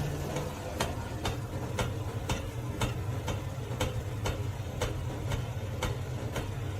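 Regular ticking, about two sharp clicks a second, over a low steady hum.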